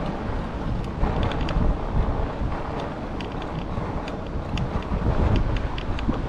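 Wind buffeting a chest-mounted GoPro's microphone on a moving e-bike, a steady rough rumble with scattered light clicks and ticks.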